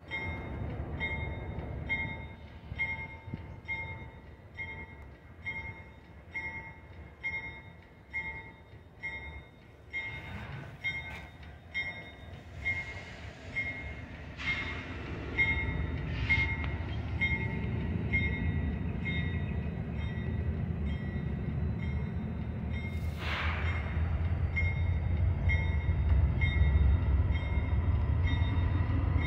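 Union Pacific diesel locomotives at the head of a slow intermodal train approaching, their low rumble growing louder from about halfway through. A steady repeating ding, about one a second, sounds through the whole stretch.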